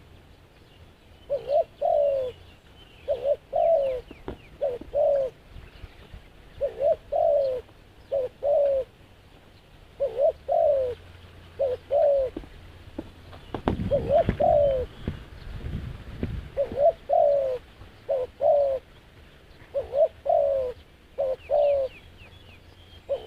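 Doves cooing again and again, each call a short note followed by a longer falling coo, about one call every second and a half. A low rumble runs under the calls for a few seconds in the middle.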